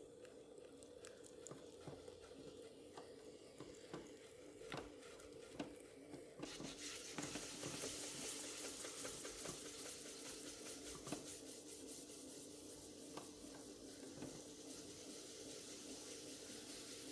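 Wet clay being worked by hand on a spinning pottery wheel over a steady low hum. Small clicks and taps come first, then from about six seconds in a steady wet, splashy hiss.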